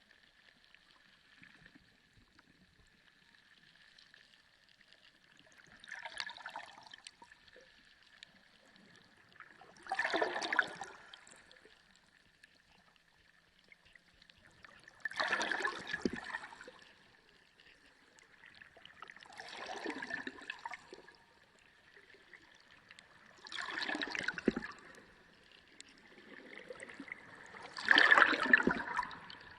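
Sea water recorded underwater: six surges of churning, gurgling water at intervals of about four to five seconds, the last one the loudest, over a faint steady high tone.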